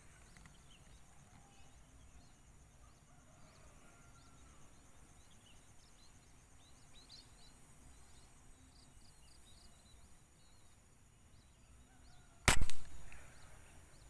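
Faint high chirps of small birds, then, near the end, a single sharp shot from a PCP air rifle: one loud crack with a short tail.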